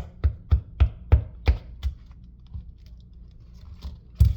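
A coconut being knocked hard against something to crack its shell: about seven sharp knocks, roughly three a second, then a single louder knock near the end.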